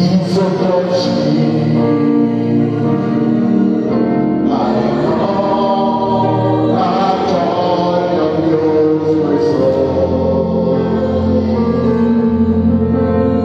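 Congregation singing a gospel song, with instrumental accompaniment and held chords.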